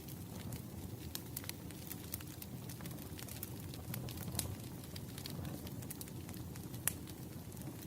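Burning firewood crackling: scattered sharp pops and snaps over a steady low rumble, with one louder pop near the end.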